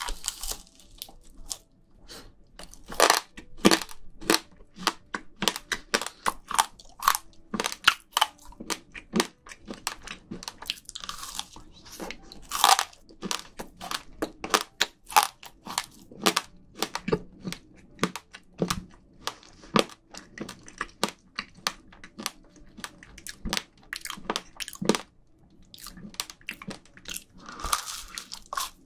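A person bites and chews an edible scrub brush close to the microphones, making many sharp, irregular crunches.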